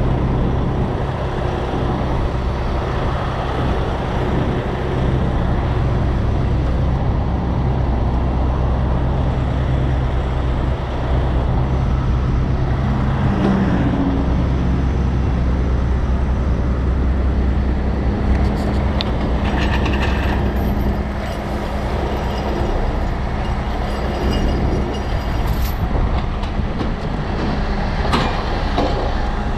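Heavy tow truck's diesel engine running steadily under load, its tone rising about two-thirds of the way in, with a few metallic knocks near the end.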